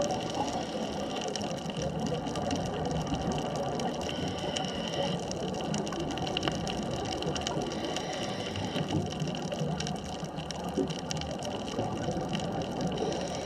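Underwater ambience at a deep reef: a steady hiss and hum with faint crackling clicks scattered throughout.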